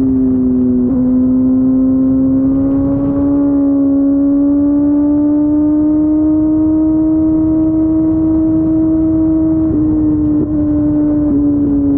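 Kawasaki ZX14R's inline-four with an Akrapovic exhaust running under way, its note rising slowly and steadily over several seconds, then wavering briefly near the end.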